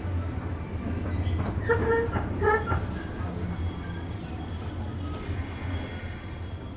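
JR West 201 series electric train running with a steady low rumble. About two seconds in, a high, steady wheel squeal sets in and keeps on, just after two short tones.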